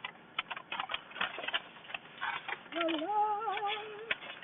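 Takeout bags rustling and crinkling in irregular bursts as they are handled and opened. A woman's voice hums a brief wavering tune near the end.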